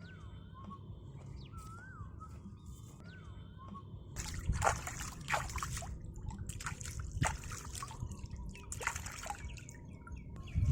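Water sloshing and splashing in irregular bursts, starting about four seconds in. Repeated whistled bird calls are heard in the first few seconds.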